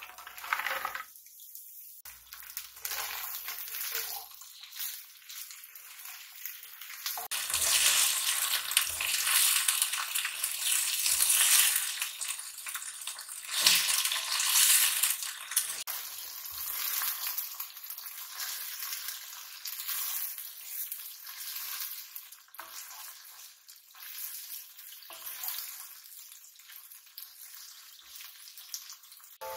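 Okra frying in oil in a pan, sizzling; the sizzle swells sharply about a quarter of the way in and slowly dies down, with a few light knocks.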